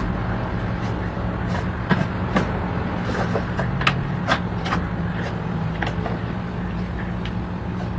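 A steady low machine hum, like a running engine, with scattered sharp clicks and knocks over it.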